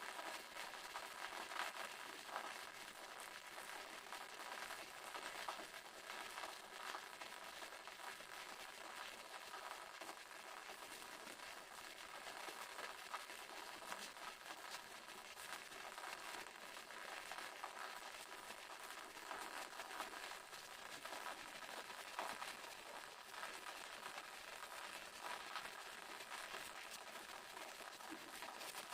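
Waterfall running steadily: an even rush of falling water with a fine, crackling spatter, mostly in the higher range and with little low rumble.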